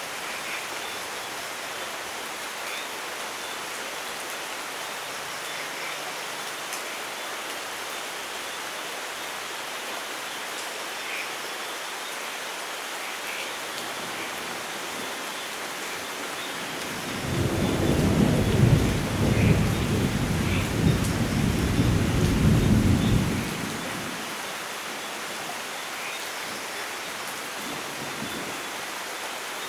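Steady rainfall with a long roll of thunder rumbling for about six seconds just past the middle, the loudest sound here. Faint short high chirps sound now and then over the rain.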